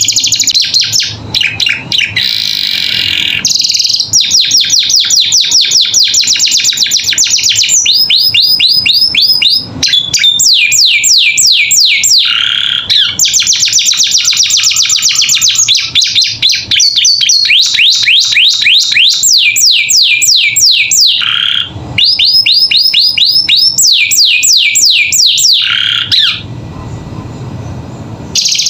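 Domestic canary singing a long, loud song of rapid trills, each made of fast repeated falling notes, switching to a new trill every couple of seconds. The song eases off briefly near the end.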